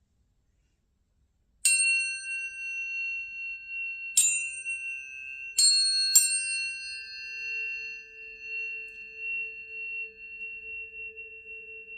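Tuning forks struck four times, starting about a second and a half in, each strike giving a bright metallic ping. Clear high steady tones ring on and overlap between the strikes, and a faint lower tone joins after the last one.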